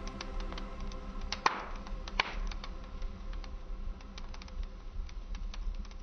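Wood fire crackling in a fireplace: a steady run of irregular small snaps with two louder pops about one and a half and two seconds in, over a low rumble.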